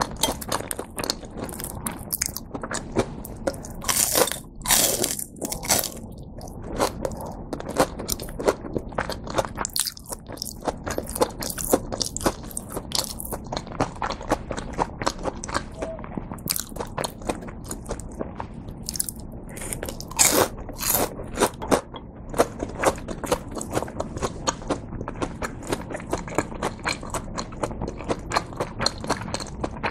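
Chewing on a crisp breaded cheese pork cutlet (cheese tonkatsu): continual crunching of the fried crust, with louder bites a few seconds in and again about two-thirds of the way through.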